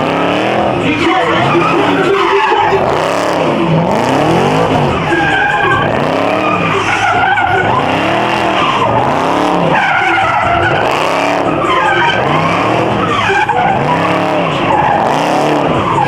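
Muscle car doing donuts in a burnout pit: the engine is held high, its pitch rising and falling every couple of seconds, over the steady screech of spinning tyres.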